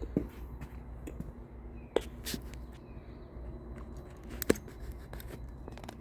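Scattered light clicks and knocks of hand tools and car body parts being handled, with two sharper knocks about two seconds and four and a half seconds in, over a low steady hum.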